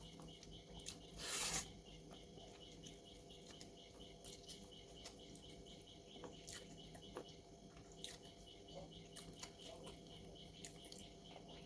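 Quiet eating sounds from a person eating noodles: faint scattered clicks of chewing and utensils, with one louder rush of noise lasting about half a second a little over a second in.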